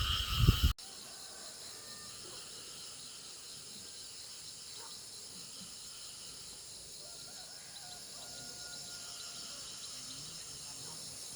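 Steady outdoor insect chorus with crickets, and a few faint bird calls. A brief burst of loud low thumping ends abruptly within the first second.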